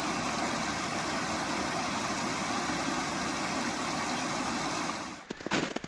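Small waterfall on a rocky stream rushing steadily. It cuts off about five seconds in, followed by a few short crunching footsteps.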